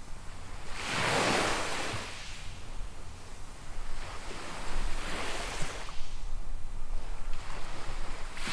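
Small waves washing onto a sand beach: a strong surge about a second in, a weaker one midway, and another building at the end. A steady low rumble of wind on the microphone runs underneath.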